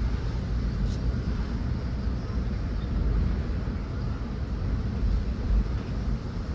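Wind buffeting the microphone in a steady, fluttering low rumble, with an even hiss above it.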